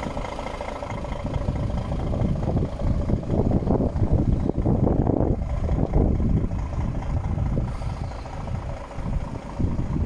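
Six-cylinder diesel engine of a DAF XF 460 truck running at idle, with its level swelling and easing unevenly.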